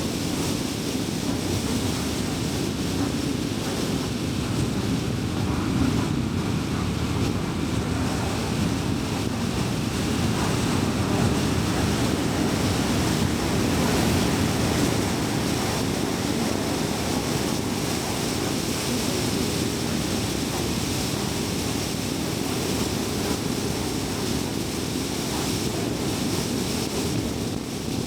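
Steady road and tyre noise of a car driving, heard from inside the car: a low rumble with a lighter hiss of wind over it, swelling slightly about ten to fifteen seconds in.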